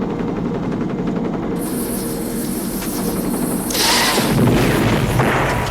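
Helicopter rotor and engine running on a film soundtrack, a steady chopping drone that swells louder about four seconds in.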